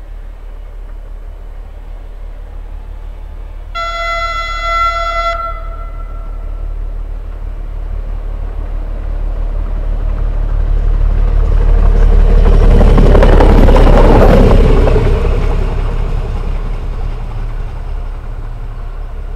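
VT670 double-deck diesel railbus sounding one horn blast of about a second and a half, then running past close by: its running noise swells to its loudest a little past the middle and fades as it goes away.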